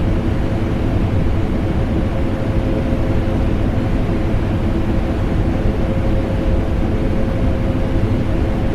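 Vacuum cleaner motor and air conditioner running together as a steady, unchanging noise, deep in the low end with a constant hum.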